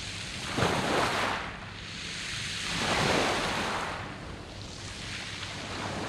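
Sea waves breaking on a beach of round pebbles (mongdol), the surf washing up over the stones and drawing back. One swell comes in suddenly just after the start and another builds to a peak about halfway through.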